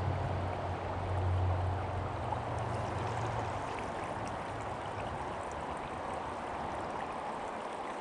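Small creek running steadily over rocks, a constant rushing. A low rumble sits underneath for the first three and a half seconds or so.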